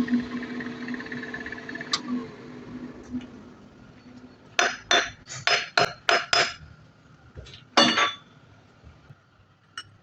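A machine hum fades away over the first few seconds. Then metal parts clink against each other: a quick run of about seven ringing clinks, one more about a second later, and a faint last one near the end.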